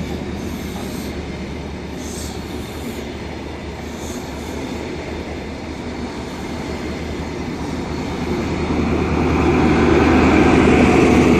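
High Speed Train (InterCity 125) passing slowly: a Class 43 diesel power car's engine hum with wheel and rail noise from the coaches. It grows louder over the last few seconds as the rear power car comes by.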